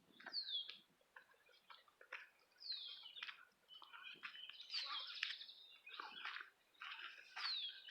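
Birds calling: a high, short down-slurred whistle repeats about four times, every two to two and a half seconds, with fainter chirps between.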